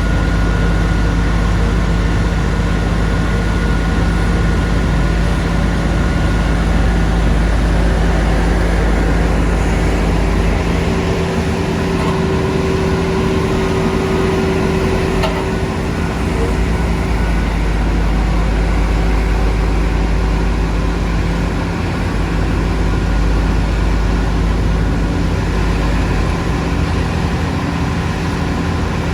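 Heavy construction machinery's diesel engine running steadily, a deep rumble with a constant hum.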